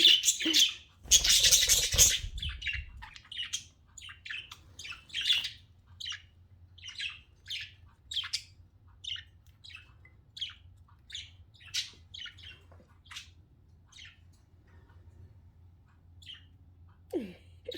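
Pet budgerigars chirping and chattering in quick short high calls, with a loud rustling burst, likely wing flapping, about a second in. The chirps thin out near the end.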